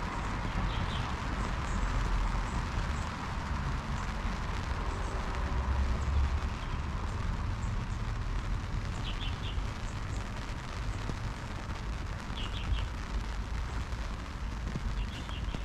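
Steady outdoor street ambience: an even hiss with a low rumble underneath, and a few short high chirps from a small bird, about four times.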